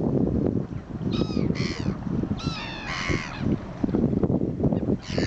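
A bird calling: two pairs of short, falling calls, one pair about a second in and another near the middle, over a constant low rumble.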